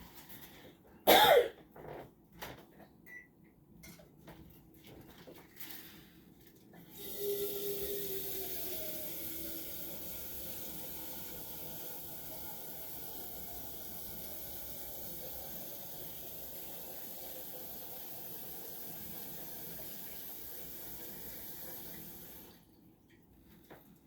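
A sharp knock about a second in, then a tap running steadily for about fifteen seconds before it is shut off abruptly.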